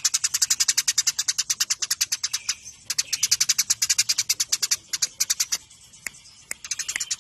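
Eurasian tree sparrows (burung gereja) in fast, tight fighting chatter: an unbroken run of sharp chirps, about ten a second, with a short pause about six seconds in.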